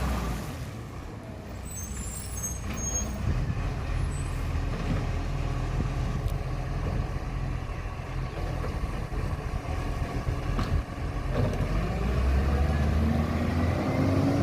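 Garbage truck's diesel engine running, dropping off in the first second, then building again about eleven seconds in with a rising pitch as it pulls away.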